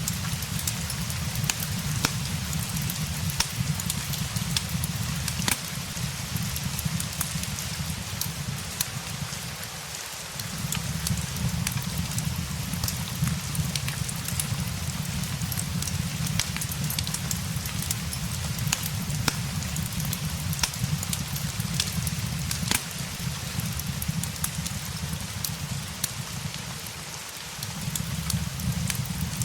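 Steady rain hiss mixed with a crackling fireplace, many sharp pops and crackles scattered over the rain. A low rumble underneath drops out briefly about ten seconds in and again near the end.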